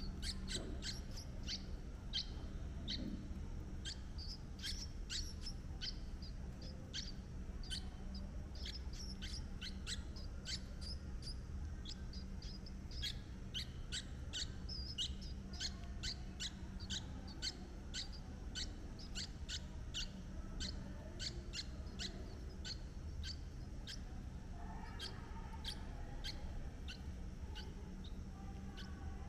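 Birds chirping: a long run of short, high chirps, a few every second, over a steady low hum.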